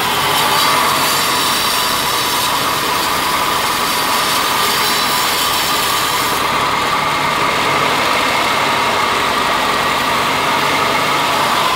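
Ford Ranger's 2.3-litre Duratec four-cylinder engine idling steadily.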